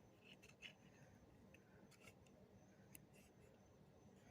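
Near silence with a few faint, light clicks: pin-back buttons being handled as two that are stuck together are worked apart.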